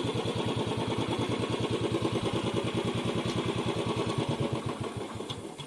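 Motorcycle engine running at low speed with an even, rapid pulsing beat, dying down a little just before the end.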